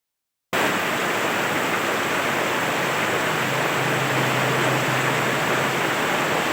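Heavy rain falling steadily, a dense even hiss that starts abruptly about half a second in.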